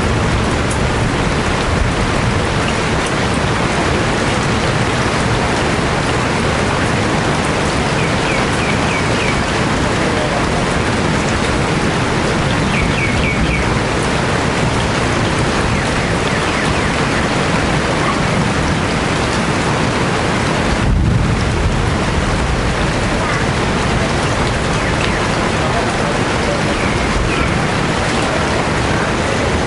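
Heavy, steady rain falling. A few short high chirps from birds cut through around 8 and 13 seconds in, and there is a brief low thump about 21 seconds in.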